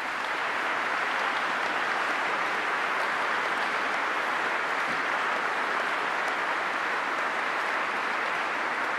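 A large audience applauding, a dense, steady clapping that holds at an even level.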